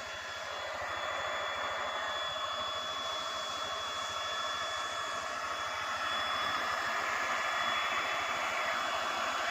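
Hot-air plastic welding gun blowing steadily: an even hiss of air with a thin high whine from its blower, getting a little louder about a second in.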